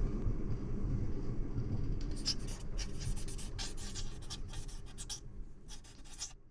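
A run of short, quick scratching strokes starting about two seconds in, over a steady low rumble, stopping just before the end.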